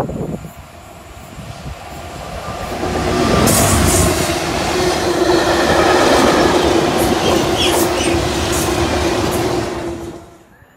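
A short loud knock, then a freight train running through at speed: the locomotive and a long rake of loaded open box wagons rumble past with a steady hum and clicks from the wheels over the rail joints. The sound cuts away near the end.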